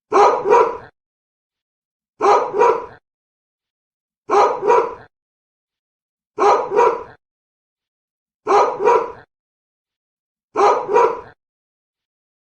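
A dog barking twice in quick succession. The same pair of barks repeats six times, about every two seconds, with dead silence between, like a looped bark recording.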